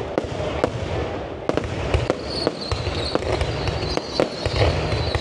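Fireworks display: repeated sharp bangs of bursting shells over continuous crackling and a low rumble, with a thin high whistle held from about two seconds in.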